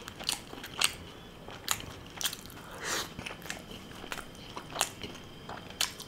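Close-miked chewing of a chicken malai seekh kebab: scattered sharp mouth clicks and smacks, with a longer noisy chew about three seconds in.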